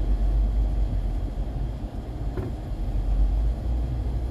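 Steady low rumble of a car heard from inside the cabin while driving, with a single short click about two and a half seconds in.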